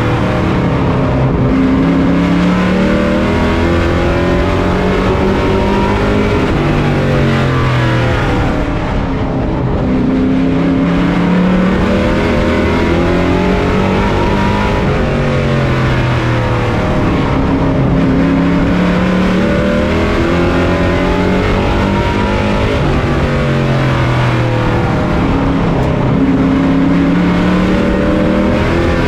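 Pro race truck's engine heard on board at racing speed. It revs up and then drops in pitch again in a repeating cycle about every eight seconds: on the throttle along the straights, lifting for the turns.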